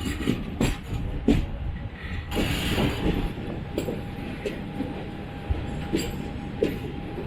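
Train wheels clattering over rail joints and points as the Garib Rath Express coaches roll slowly into the platform. The clacks are irregular, with a brief hiss about two and a half seconds in and a faint steady whine after it.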